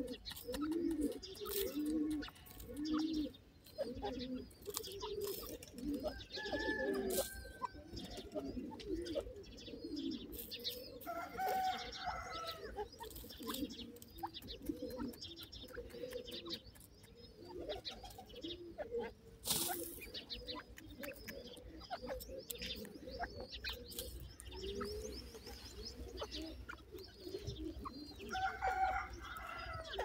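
Birds cooing: low, soft call notes repeated over and over, several overlapping, with a higher call breaking in a few times and scattered light clicks.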